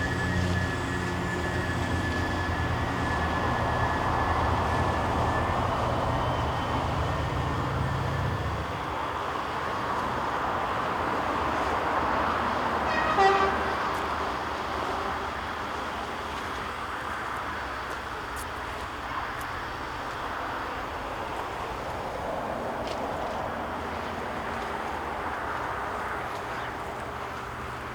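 A train running on the line. A low hum stops about eight seconds in, and a short horn toot about thirteen seconds in is the loudest sound.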